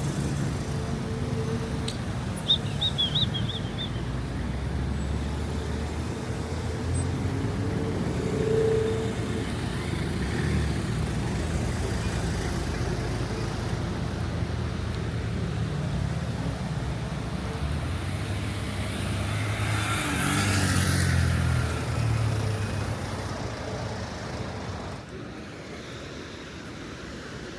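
Motor vehicle engine and road noise, a steady low rumble that shifts in pitch, with a louder hiss about twenty seconds in; the level drops off sharply near the end.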